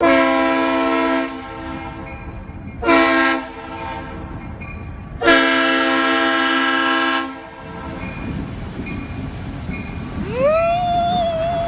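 Loud multi-note air horn sounding three blasts, the last about two seconds long, over a steady low rumble. Near the end a single higher tone slides up, holds, and drops away.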